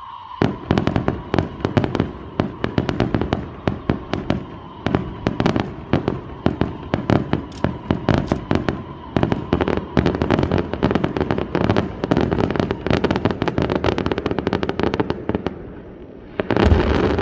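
Aerial fireworks show: a rapid barrage of sharp cracking reports as shells launch and burst low, with a faint steady whistle under the first half. Near the end comes one loud boom of a large shell bursting.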